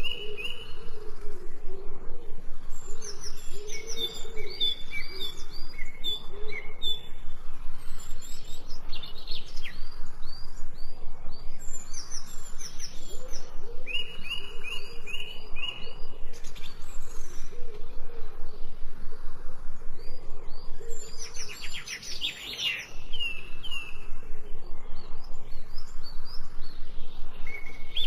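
Several birds chirping and singing together in short, repeated high notes, over a lower wavering call. A fast trill comes through about three-quarters of the way in.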